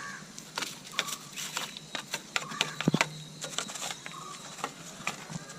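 Irregular metallic clicks and taps of hand tools working on a tractor's diesel engine while the injector nozzles are being loosened, with a short chirp repeating about once a second in the background.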